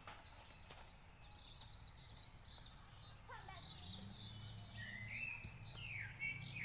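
Faint songbirds chirping and whistling, many short calls scattered throughout, over light outdoor background noise.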